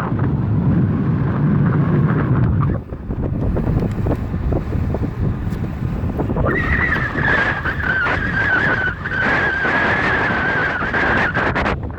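Wind rushing over the microphone with road rumble while riding a bicycle. From about halfway a steady high whine joins in.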